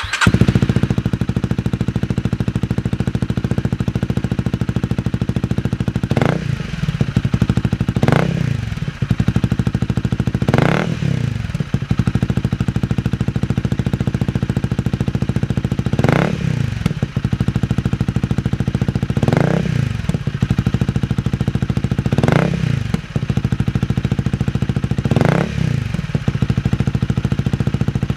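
Honda Rebel 250's single-cylinder engine running through an aftermarket OVER Racing SS megaphone slip-on muffler, idling steadily with seven short throttle blips that rise and fall back to idle.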